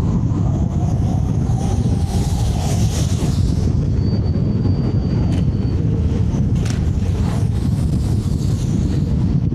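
Steady, loud wind rumble on an action camera's microphone while riding an electric scooter, with riding noise underneath. A thin high whistle-like tone comes in for about two seconds in the middle, and there is a sharp click near the end.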